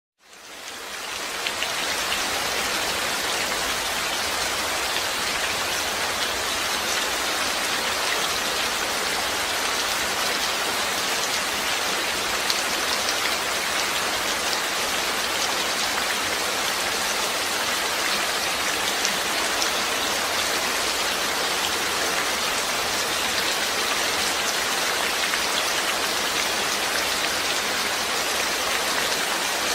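Steady rain falling, a dense patter of drops that fades in over the first second or so and then holds even.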